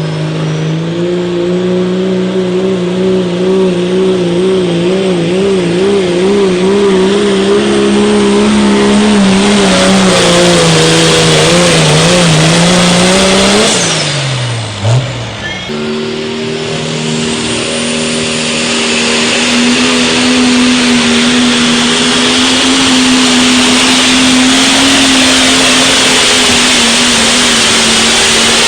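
A pulling truck or tractor engine running flat out down the track, a steady, high-revving drone. About halfway through the pitch drops away as the throttle comes off, then another pull starts at a higher steady pitch and falls away near the end.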